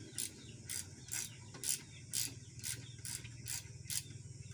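Ratchet wrench clicking in short, even strokes, about two a second, as bolts are taken off during engine disassembly, over a steady low hum.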